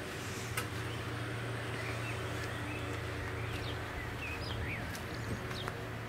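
Garden ambience: a few short bird chirps over a steady low hum, with a single click about half a second in.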